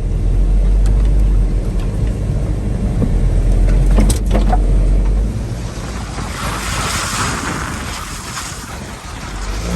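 1985 Toyota pickup with a 22RE four-cylinder engine driving over rough ground: a deep steady rumble with a couple of sharp knocks from the bouncing truck. About six seconds in the rumble drops back and a rushing hiss rises for a few seconds.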